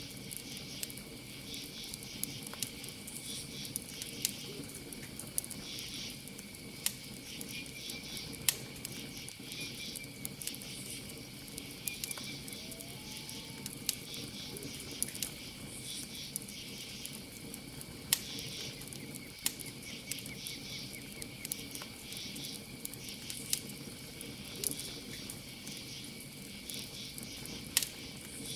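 Campfire burning and crackling, with sharp irregular pops, over a steady high cricket trill and pulsing insect chirping.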